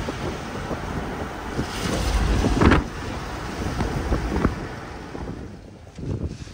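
Wind buffeting the microphone with a low rumble, building to a loud gust about two to three seconds in and then easing off.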